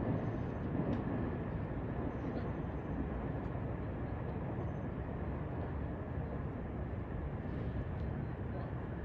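Steady low rumble of distant trains and city traffic, a little louder in the first second.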